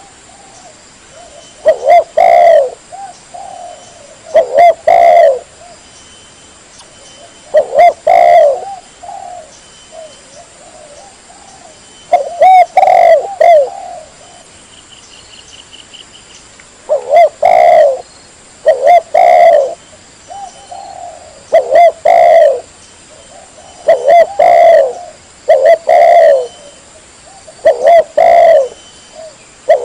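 Spotted dove (tekukur) cooing loudly and clearly, repeating short phrases of a few coos every two to three seconds.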